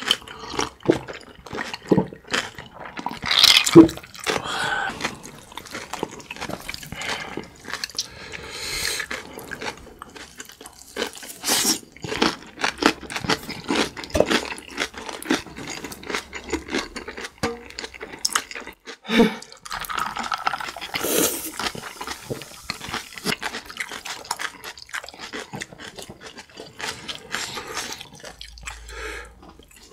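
Close-miked chewing of kimchi-wrapped spicy noodles: irregular wet mouth sounds and small clicks from two people eating.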